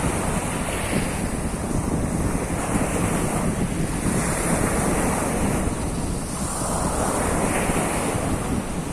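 Sea of Azov surf: waves breaking and washing in one after another, a continuous rushing that swells every second or two, with wind rumbling on the microphone.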